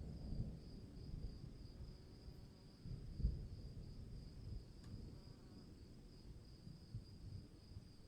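Crickets trilling steadily in a continuous high, even chorus, with a low uneven rumble underneath that swells briefly about three seconds in.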